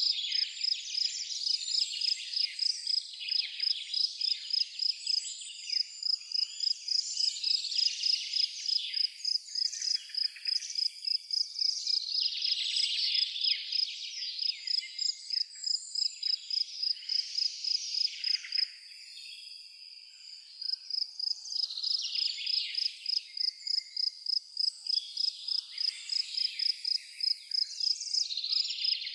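A cricket chirping in an even pulse, about three chirps a second, pausing for a couple of seconds past the middle, with songbirds singing and twittering over it.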